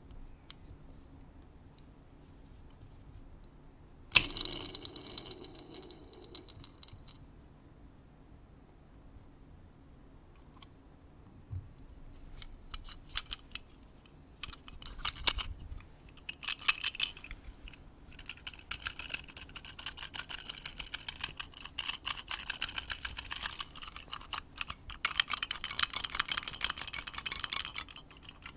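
Crickets chirping in a steady high trill, with close scratching, brushing and clicking sounds over them: a sharp crackle about four seconds in, scattered clicks in the middle, and dense scratchy clicking through the last ten seconds.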